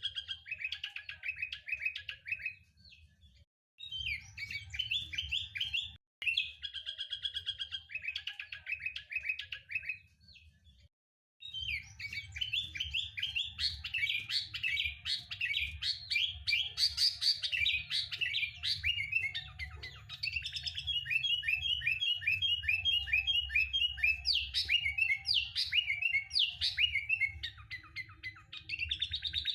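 Sooty-headed bulbul (kutilang) song: fast, bubbly chattering phrases that run almost without pause, broken twice by short silences about 3.5 and 10.5 seconds in. A low hum runs under the song.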